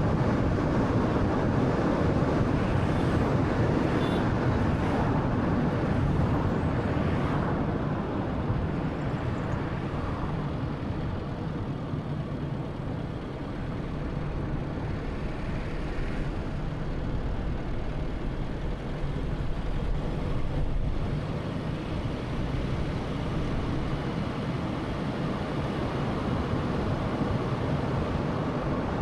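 Road and tyre noise with the engine of a 2013 Honda Fit (1.3-litre) driving along, a steady low rumble that eases a little about halfway through and then builds again.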